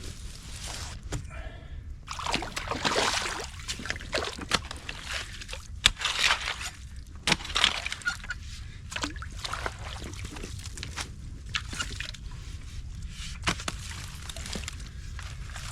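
Water splashing and sloshing in irregular surges as a potato rake drags mud, sticks and rocks out of a beaver dam. Sharp clicks and knocks of sticks and stones are scattered through, the loudest a single knock about six seconds in.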